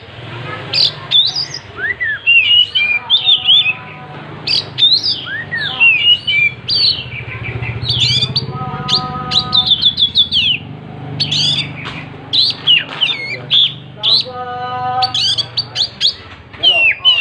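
Oriental magpie-robin (kacer) singing loudly and without pause: a fast, varied run of whistles, rising and falling glides and chirps, broken three times by a held, buzzy note.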